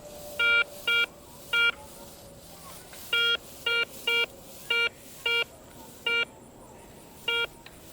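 Garrett ACE 250 metal detector beeping as the search coil is swept back and forth over a buried target: about ten short, identical beeps in irregular groups. The tone reads in the nickel-to-pop-tab range.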